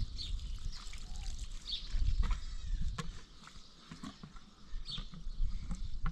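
Outdoor ambience with short high chirps, like a bird's, every second or two and a few sharp knocks.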